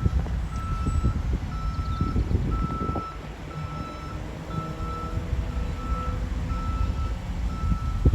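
Fire engine backing up: its reversing alarm beeps steadily about once a second over the low rumble of the truck's engine.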